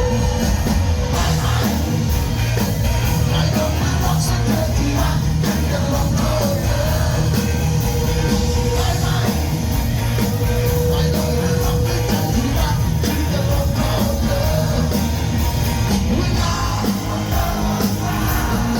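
Loud rock-style band music with a held vocal or lead melody over a steady bass and drum beat.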